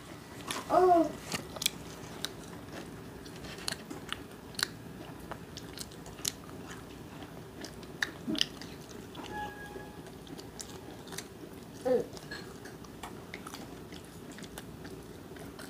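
Fried chicken being bitten and chewed, with scattered crisp crunching clicks. A small child makes a short vocal sound about a second in, and again briefly near the end.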